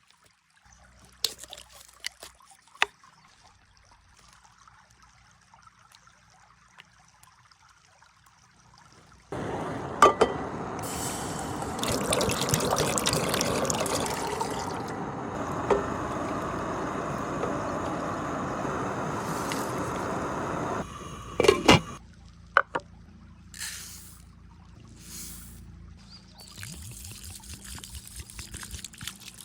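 Liquid being poured steadily for about twelve seconds, with a few sharp knocks before it starts and just after it stops.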